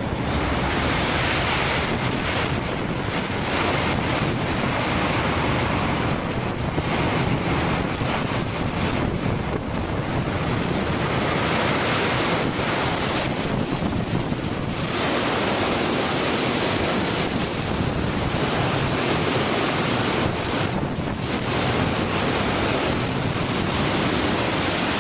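Storm wind blasting across the microphone together with heavy seas breaking and washing over a loaded cargo ship's deck: a continuous rushing noise that swells and eases every few seconds.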